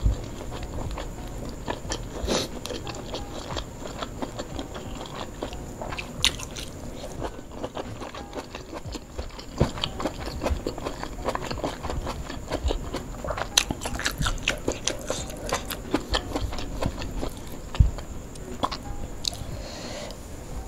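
Chewing and biting sounds of a person eating fried duck and rice by hand: wet mouth clicks and smacks with some crunchy bites. The clicks come thicker a little past halfway, with one sharp click near the end.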